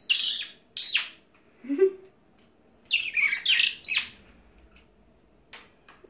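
Small brown bird giving short, harsh chattering calls: a couple near the start, and a longer run of calls about three seconds in.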